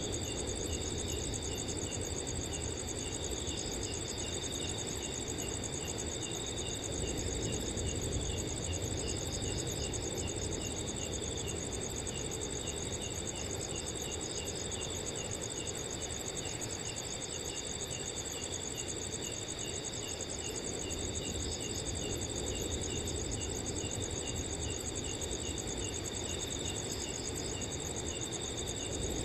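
Night chorus of several crickets at different pitches: a high continuous trill and a steady, evenly repeated chirp beneath it. Under them runs a low, even rumble of wind.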